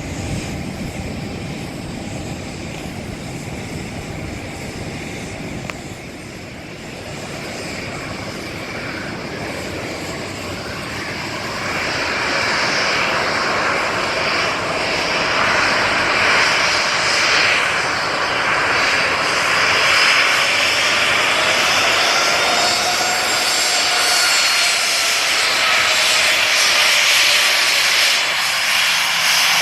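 Boeing 737-900ER's two CFM56-7 turbofan engines at taxi power: a steady jet rush with a thin whine. It grows louder about twelve seconds in, and the whine drifts slowly in pitch as the jet moves past.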